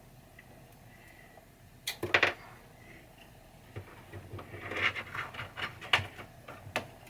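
Clicks and knocks of parts being handled inside a pinball machine: a loud double knock about two seconds in, then a run of lighter clicks and rattles over the last few seconds.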